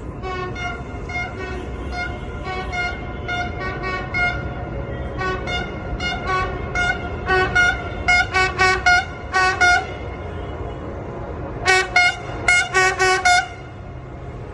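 Locomotive horn sounded in many short toots on one note, in quick uneven runs, with two louder clusters near the middle and end, over a low rumble.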